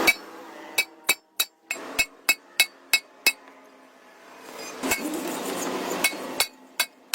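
Hammer striking metal: a quick series of sharp, ringing blows, about three a second, then a pause and a few more blows near the end.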